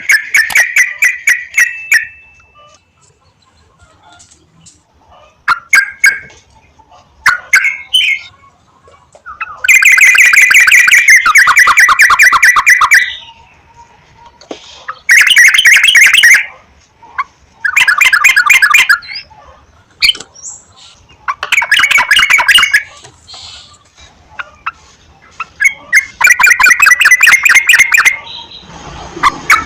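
Sooty-headed bulbul (trucukan) chattering in loud bouts of fast repeated notes, each bout lasting a second or three, coming again every few seconds.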